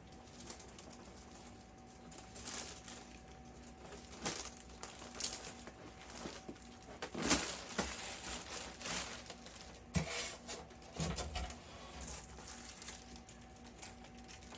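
Packing material being handled and pulled away from a new air conditioner: intermittent rustling and crinkling with a few knocks, loudest about seven seconds in.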